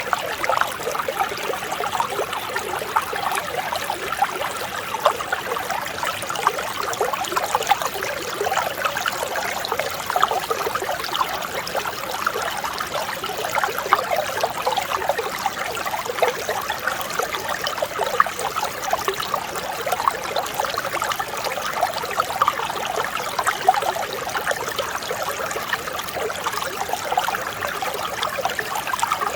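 Mountain stream running over rocks: a steady burble and trickle of clear water.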